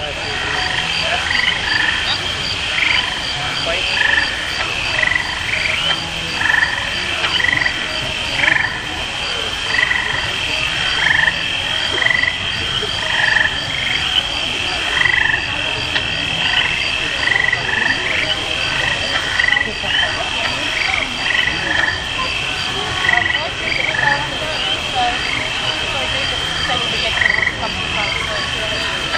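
A chorus of frogs calling over and over, with short repeated calls over a steady high buzz that has a fast, even pulse.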